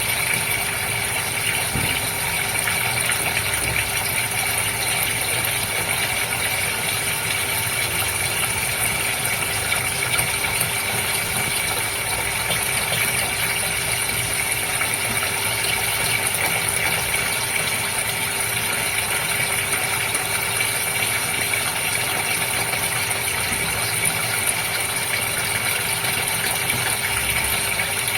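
Goldfish aquarium running steadily: the even hum of its water pump under a constant hiss of moving water.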